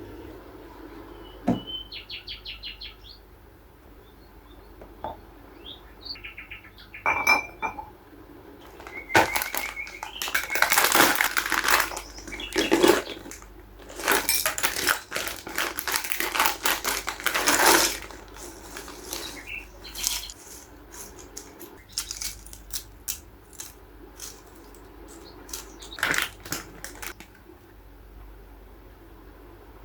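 Rustling and light clicking and clattering of small decor items and packaging being handled, with occasional short bird chirps.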